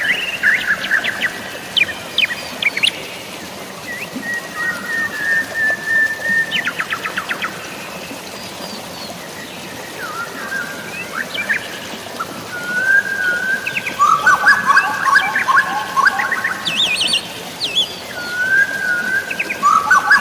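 Several birds chirping and singing, with rapid trills and short whistled phrases, over a steady hiss of rain or running water. The birdsong is busiest at the start and again from about two thirds of the way through, with a lull in the middle.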